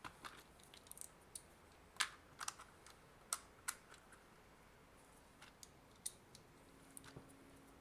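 Scattered light clicks and taps of small hand tools and plastic parts being handled, irregular and well apart, the loudest about two seconds in.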